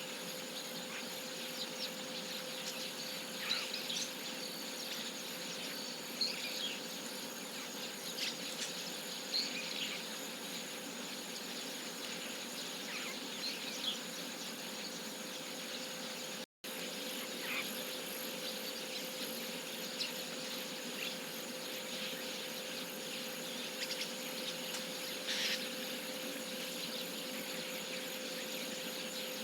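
Scattered short chirps of chestnut-cheeked starlings going to roost, over a steady insect drone.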